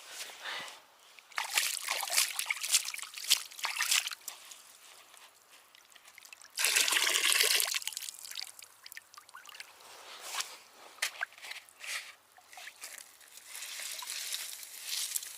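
Water trickling and sloshing as bread is soaked in it for fishing groundbait, with a louder rush of water for about a second midway.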